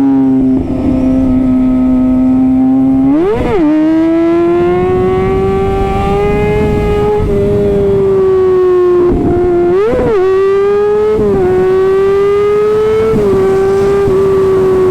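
Kawasaki ZX-6R inline-four with an Arrow titanium exhaust, running hard on the move with its note slowly climbing. It gives two quick rev blips, about three and ten seconds in, each a sharp rise and fall in pitch.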